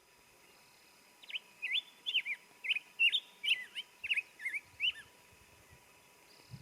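A songbird singing one long run of quick notes that sweep up and down, lasting about four seconds and starting about a second in.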